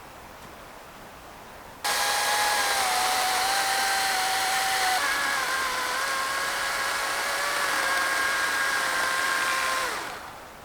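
A small electric motor runs with a steady whine over a hiss. It switches on suddenly about two seconds in, drops in pitch around the middle, and winds down shortly before the end.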